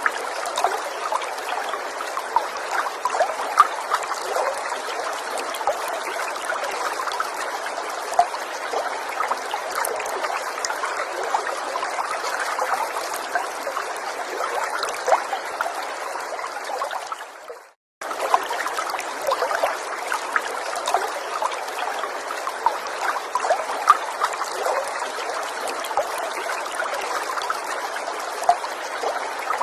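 Small stream trickling and babbling steadily, with many small splashes and drips. About two-thirds of the way through, the water fades out to silence for a moment and then cuts straight back in.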